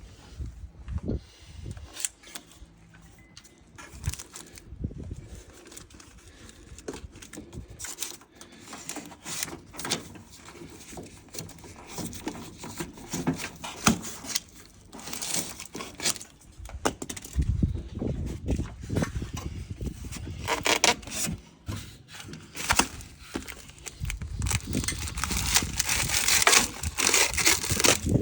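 Mitsubishi PUZ-SM100VKA heat pump outdoor unit making irregular clicks, crackles and rattles, with spells of low rumble about two-thirds of the way in and near the end: the unit is noisy and vibrating.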